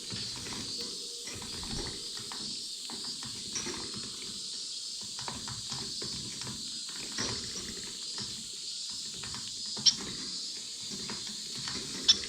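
Caged finches feeding close to the microphone: irregular small pecking clicks and rustling of seed and bodies, over a steady high chatter from the flock, with two short sharp high calls near the end.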